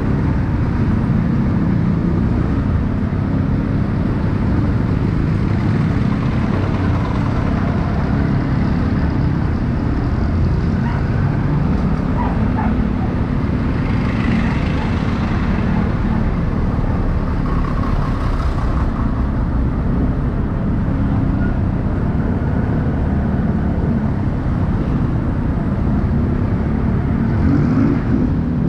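Motorcycle running steadily on the road, its engine rumble mixed with street traffic noise.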